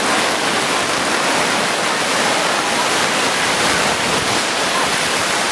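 Steady, even rush of water in a heavy downpour.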